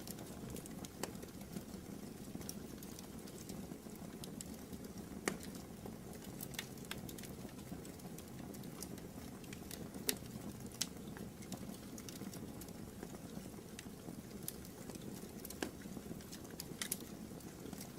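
Wood fire burning in a fireplace: irregular crackles and sharp pops over a soft, steady rush of flame, with a few louder pops.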